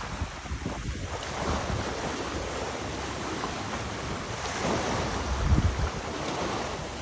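Wind buffeting the microphone in gusts over the steady rush of river water, with the strongest gust about five and a half seconds in.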